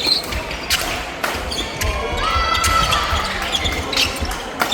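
Badminton rally: sharp racket strikes on the shuttlecock, about five in all, with court shoes squeaking on the hall floor about halfway through.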